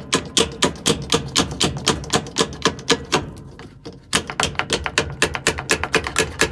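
Rapid hard tapping, about four or five sharp taps a second with a brief pause about four seconds in, as a washing machine motor coupling is driven down onto the motor shaft until it seats.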